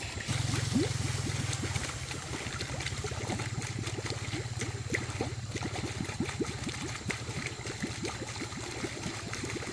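Water gurgling and bubbling, with a steady low hum underneath.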